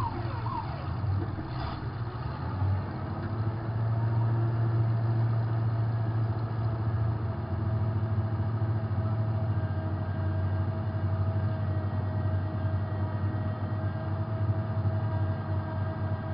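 Demolition derby car's engine running steadily, heard from inside the car, with a low rumble and a faint steady whine over it.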